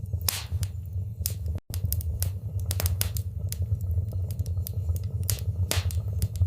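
Wood fire crackling in a fireplace: irregular sharp pops and snaps over a steady low rumble of burning. The sound cuts out for an instant about a second and a half in.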